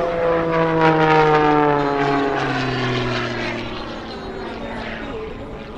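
Single-engine propeller aerobatic plane (MXS, 385 horsepower) making a low pass, its engine note falling steadily in pitch as it goes by and fades away.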